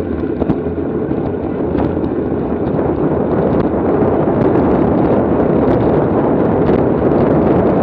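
Wind rushing over the microphone of a camera on a racing bicycle: a steady, loud buffeting that grows a little louder after about three seconds, with a few sharp clicks near the start.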